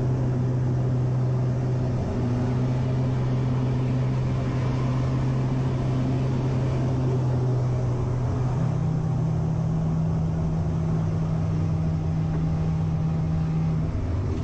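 Aircraft engine droning steadily with a strong low hum, the pitch stepping up about eight and a half seconds in.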